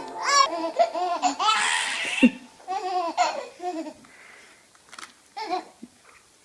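A baby laughing in short bursts, the laughs thinning out after about three and a half seconds, with a few fainter sounds about five seconds in.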